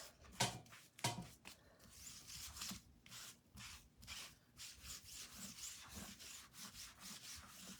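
Damp board eraser sponge wiped in faint, repeated rubbing strokes over a silk screen transfer, with two louder strokes near the start.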